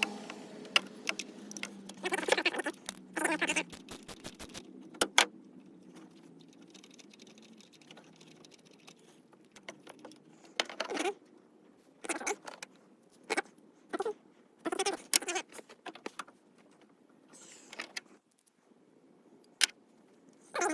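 Metal hand tools clinking, with a socket wrench ratcheting in short bursts, as spark plugs are worked out of the engine. Single sharp clicks come in between, with quiet stretches.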